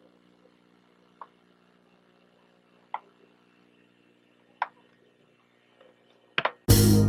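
A few faint, isolated clicks spaced a second or two apart over a low steady hum, then loud music with drums cuts in near the end.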